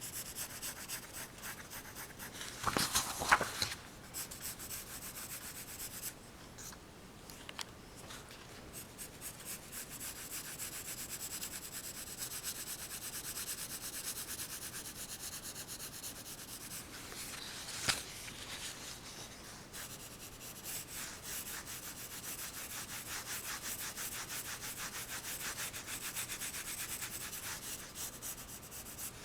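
Pencil scratching over drawing paper in quick back-and-forth sketching strokes. There is a louder burst of strokes about three seconds in, the strokes thin out for a few seconds after that, and there is a single sharp tap a little past halfway.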